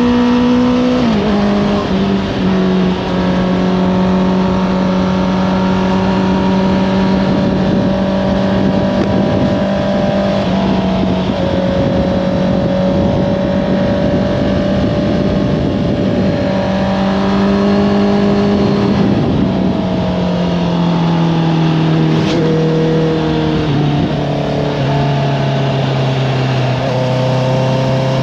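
Honda CBR650R's inline-four engine with an Akrapovič exhaust, running under way over a haze of wind rush. Its pitch drops sharply about a second in and holds steady for a long stretch. In the last third it steps down several times to a lower note.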